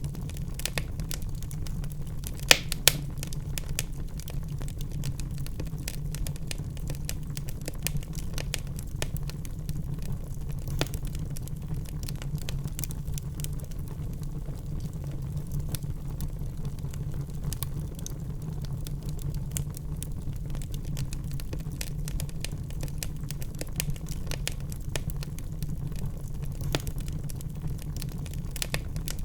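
Wood fire in a fireplace crackling, with many small irregular pops and two louder snaps about two and a half seconds in, over a steady low rumble.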